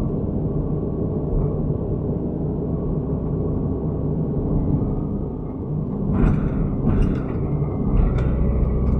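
Excavator's diesel engine running steadily under load as the machine shifts position, with a few clanks near the end.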